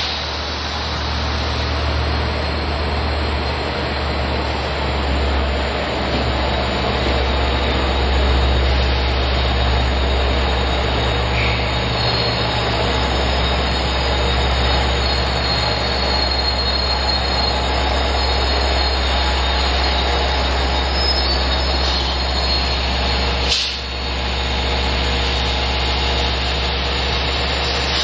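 Long Island Rail Road C3 bilevel push-pull train pulling out of the station slowly, the coaches rolling past with steady wheel and rail noise over the constant low hum of its DE30AC diesel locomotive, which pushes from the rear and passes near the end. A single sharp click cuts in about three-quarters of the way through.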